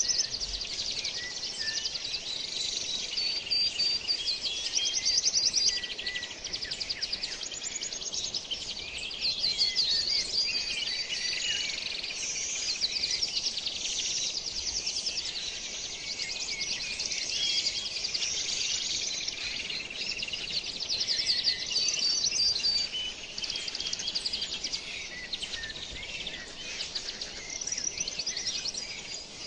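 Many songbirds chirping and trilling together in a dense, continuous chorus of rapid, high, overlapping notes.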